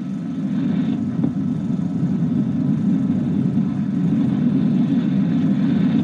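F-84 Thunderjet jet fighters passing over, their engines a steady low rumble on an old film soundtrack.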